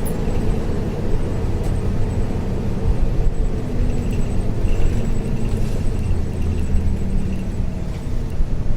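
Isuzu U-LV224N route bus with its 6QB2 diesel engine running on the move, heard inside the cabin as a steady low engine and road rumble.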